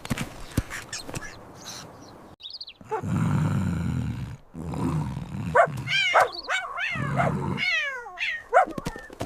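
Cartoon animal sound effects: a loud low roar about three seconds in, then a run of quick, high, falling squeaky calls over a low rumble.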